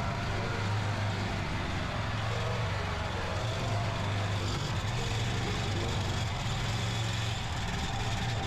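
Mini tractor engine running steadily under load, a constant low drone.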